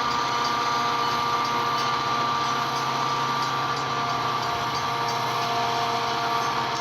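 Metra commuter train running, a steady mechanical rumble with several high whining tones held throughout.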